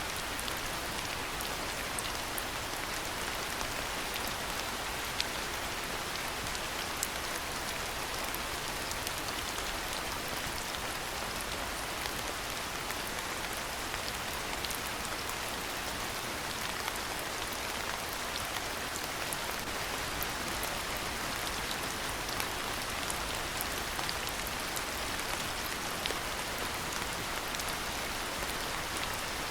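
Steady rain falling, an even hiss dotted with frequent sharp ticks of individual drops striking nearby surfaces.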